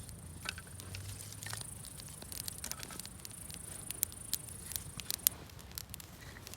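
Wood campfire crackling, with irregular sharp pops and snaps, over a steady high hiss that stops about five seconds in.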